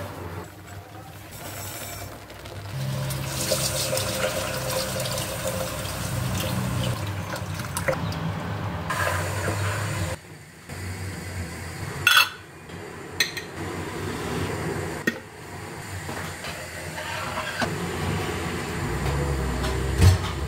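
Water running, with a few sharp knocks about twelve and thirteen seconds in and again near the end.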